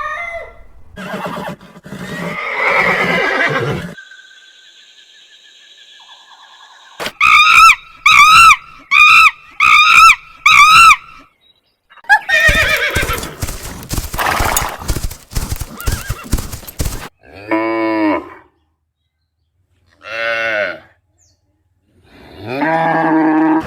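A series of different animal calls, one after another, among them a horse whinnying. In the middle comes a run of about six short, quick repeated notes.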